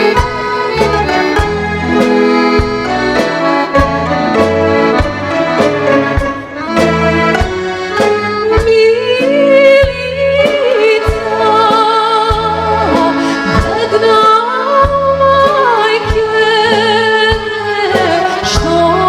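Serbian folk band led by accordion playing an instrumental opening over a steady beat; about eight or nine seconds in a woman's voice enters, singing with a strong vibrato over the accordion.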